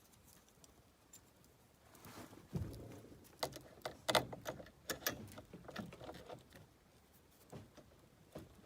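Irregular metallic clicks and clinks of a chainsaw chain being handled, its links rattling against each other and the saw as it is untangled and fitted, after a dull knock about two and a half seconds in.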